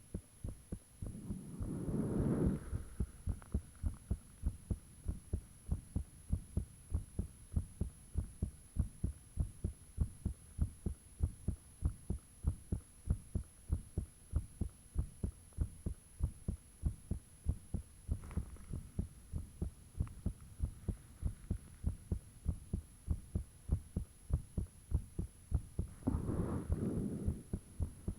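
Human heartbeat close up: a fast, regular train of low thumps, with a louder rushing swell about two seconds in and again near the end.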